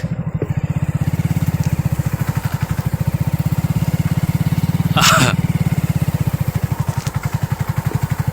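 A vehicle's engine running steadily with a fast, even low throb, heard while riding. A brief higher-pitched sound cuts in about five seconds in.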